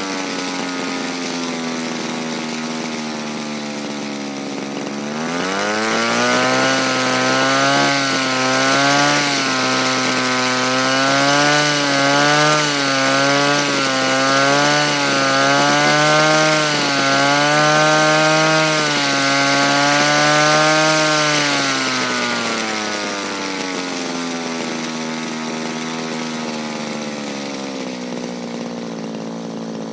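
Small two-stroke petrol engine of a Raptor 50 RC helicopter converted to gasoline, idling, then throttled up about five seconds in. It holds a higher speed with the pitch wavering up and down, then winds back down to idle after about twenty seconds.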